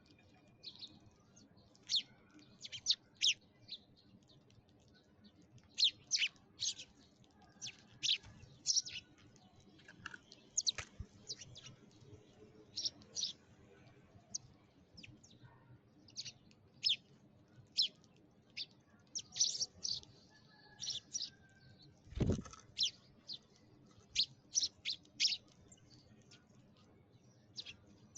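Sparrows chirping: many short, high chirps in irregular clusters. A single dull thump comes about three-quarters of the way through.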